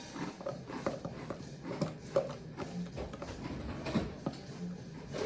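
Irregular light knocks and clicks from kitchen utensils and containers being handled while mixing cake ingredients.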